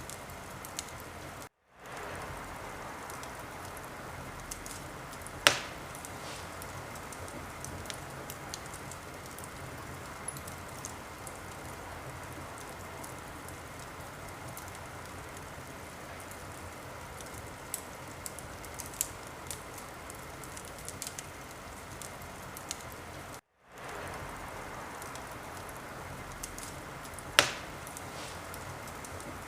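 Wood fire crackling steadily in a fireplace, a constant hiss dotted with small ticks, with two sharp loud pops, one about five seconds in and one near the end. The sound cuts out completely for a moment twice.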